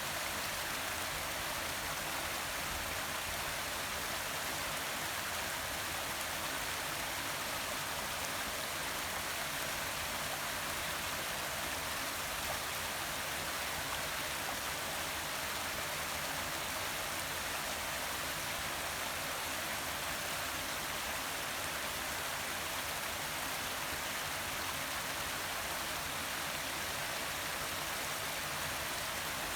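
Forest waterfall with the steady hiss and splash of falling water.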